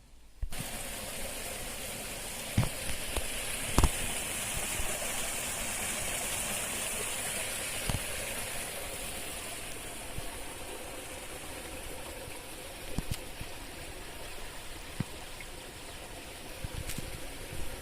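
Steady rushing noise that starts abruptly about half a second in, with a few sharp clicks and knocks scattered through it.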